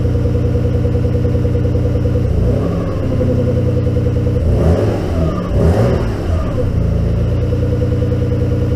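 Nissan Skyline GTR's RB26DETT twin-turbo straight-six idling steadily, revved up and back down briefly about a quarter of the way in and then a few times around the middle. It is being run up to operating temperature before a compression test.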